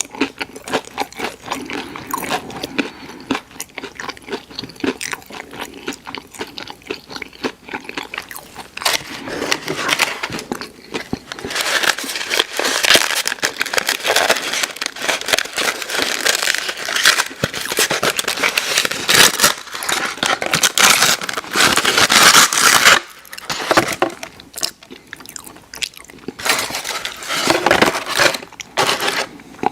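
Close-miked chewing with loud crunching bites of crisp fried food. The crunching grows denser and louder through the middle, then eases into softer chewing near the end.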